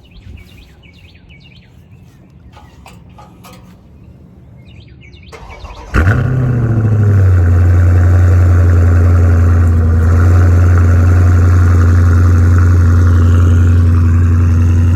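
Birds chirping, then about five seconds in the 2020 Dodge Challenger Widebody's HEMI V8 cranks and fires on a cold start with one loud bark. Its revs flare and drop within a second, then it holds a steady fast idle through the stock exhaust, which still has its mid-muffler.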